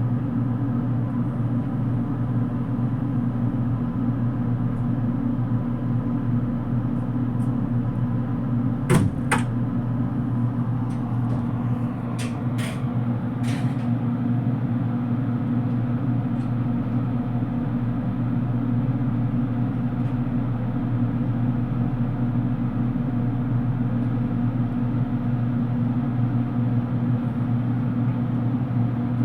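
Steady low drone inside the passenger cabin of a JR Kyushu 787 series electric train as it runs, with a few sharp clicks about nine seconds in and again a few seconds later.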